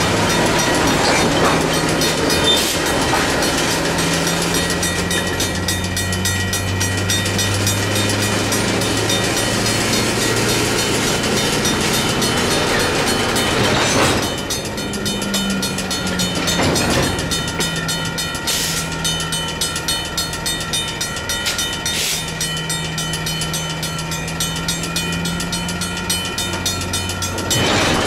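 Diesel locomotive engine running steadily while railcars roll through a grade crossing, with a few sharp clanks from about halfway through.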